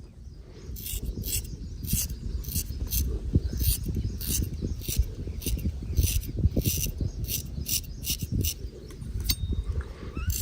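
A straight razor scraping through hair in short, quick strokes, about two or three a second, over a low rumble.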